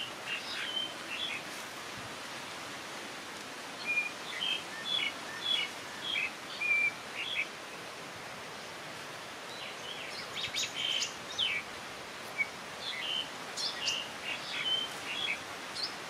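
Wild birds chirping: quick runs of short high chirps in about four bouts with pauses between, over a steady faint outdoor hiss.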